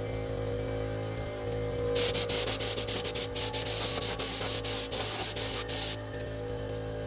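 Sped-up workshop noise: a steady machine hum, then a loud hiss that starts and stops rapidly from about two seconds in until near the end.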